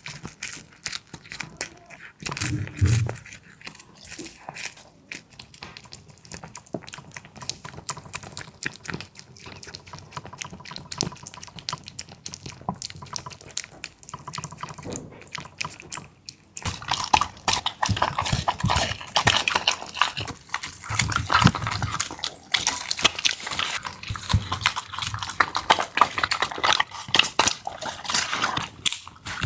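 A dog eating moist food: rapid wet smacking, licking and chewing clicks, thickening into a dense, louder stretch a little past halfway.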